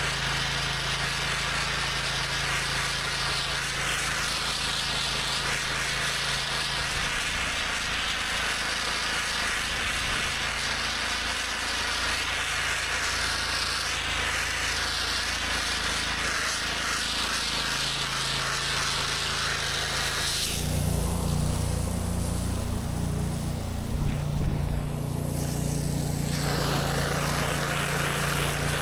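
Gas-engine pressure washer running while its high-pressure water spray hisses against concrete. About twenty seconds in the spray stops and the engine's low steady hum comes forward. The spray starts again a few seconds later.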